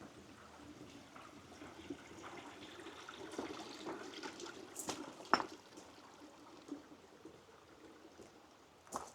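Stream water trickling and splashing faintly, swelling a little toward the middle, with a few sharp clicks, the loudest a little after five seconds in.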